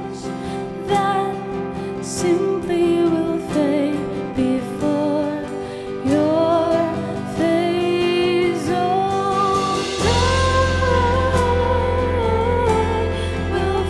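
Live worship band playing a slow worship song with a lead vocalist singing the melody over sustained chords; a deep bass comes in about ten seconds in and the band swells.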